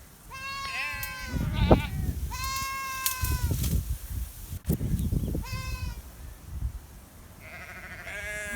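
A goat bleating repeatedly, about four loud wavering calls a second or so long, with low wind rumble on the microphone between them.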